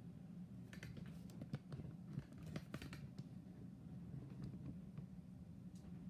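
Faint handling of a camera backpack: scattered small clicks and rustles of its straps, clips and fabric being adjusted, over a steady low hum.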